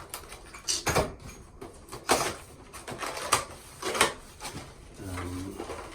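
Hands handling toilet repair parts and their packaging: four sharp clacks about a second apart, with softer handling noise between them.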